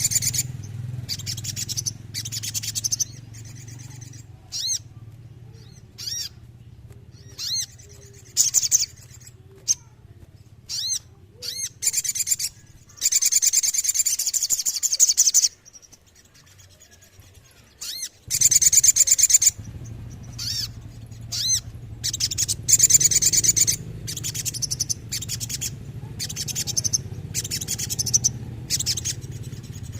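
A little spiderhunter (sogon) singing: short sharp high-pitched phrases and several long rapid rolling trills, over a steady low hum that briefly cuts out near the middle.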